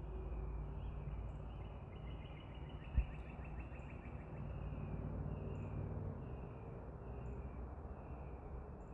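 Birds calling outdoors, with short chirps repeating about once a second and a few thin high notes, over a steady low rumble of background noise. A single soft knock comes about three seconds in.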